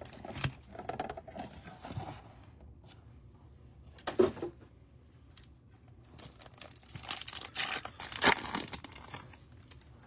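Trading card blaster box and its wrapping being torn open, with crinkling in between. There are short rips at the start, a sharp one about four seconds in, and a longer run of tearing and crinkling from about seven to nine seconds, loudest just past eight seconds.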